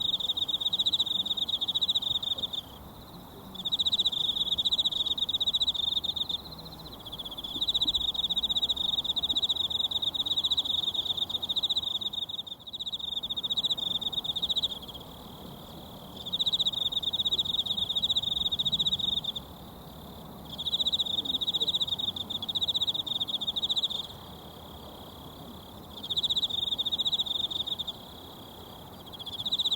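An insect trilling loudly in repeated bouts of a few seconds with pauses of about a second between them, over the faint steady rush of a mountain stream.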